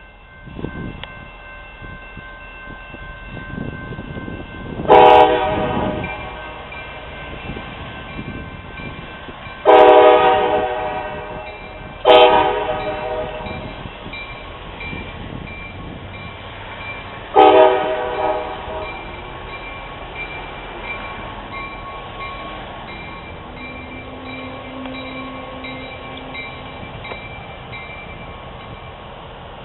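Locomotive multi-chime air horn sounding four blasts, the second the longest, over the rumble of a passing train. A railroad crossing bell rings steadily in the background.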